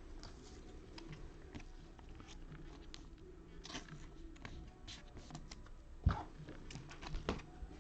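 Trading cards being handled at a table: scattered soft clicks and rustles as cards slide and are flipped, with a louder knock about six seconds in.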